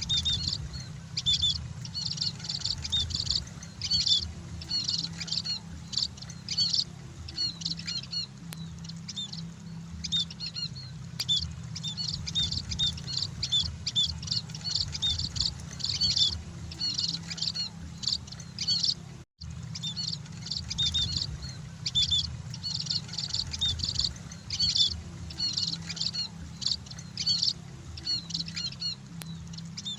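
A flock of emprit (munias) chirping continuously: many short, high-pitched chirps in quick succession, over a steady low hum. The sound cuts out for an instant about two-thirds of the way through, then the chirping resumes.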